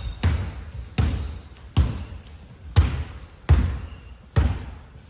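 A basketball being dribbled on a court floor: six bounces at a slow, even pace, about one every 0.8 seconds. High squeaks sound over the bounces.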